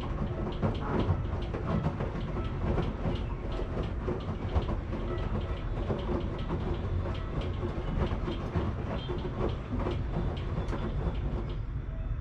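Washing machine running: a steady low rumble from the turning drum, with frequent irregular clicks and knocks as the load tumbles. The clicking thins out near the end.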